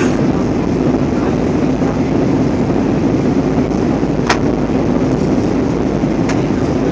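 Airbus A320 cabin noise: a steady low rumble with a constant hum, and a single sharp click about four seconds in.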